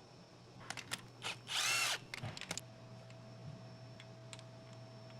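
A handheld power tool whirs briefly, spinning up and back down in about half a second, with clicks of tools and parts being handled before and after it.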